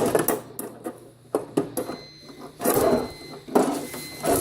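Toy aircraft carrier set being handled: irregular clicks, knocks and rubbing of small parts against its hull.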